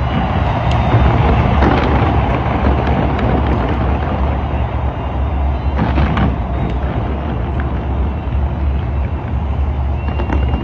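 Aerial fireworks going off in a dense, continuous barrage: many booms and bangs over a deep rumble, with the sharpest bursts bunched about a second or two in and again around six seconds.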